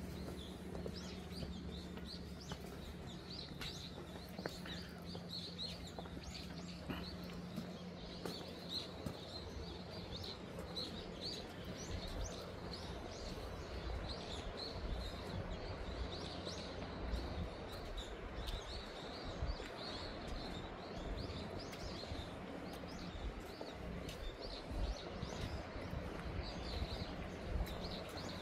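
Small birds chirping over and over, many short high chirps, over a steady outdoor hiss; a low rumble joins in from about twelve seconds in.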